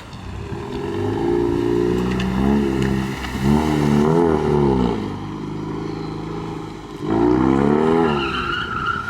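2018 Mustang EcoBoost's turbocharged 2.3-litre four-cylinder, straight-piped with muffler and resonator deleted, revved hard several times: the engine note climbs and falls in a long surge, then a double rev in the middle, then another rev near the end.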